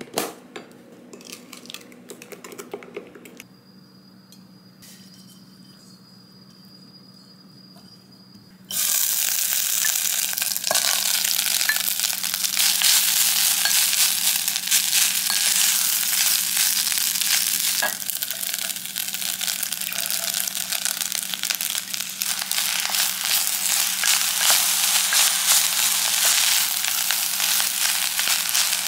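Wooden spoons clinking against a small glass bowl as sauce is mixed, then, after a brief quiet stretch, rice and diced ham start sizzling loudly in a hot ceramic pot about nine seconds in. The frying crackles on steadily while it is stirred with a wooden spatula.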